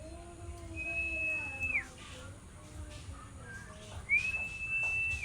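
Two long, high whistles, each held steady for about a second and ending in a quick drop in pitch, the second about three seconds after the first. Fainter lower notes slide gently down under the first whistle.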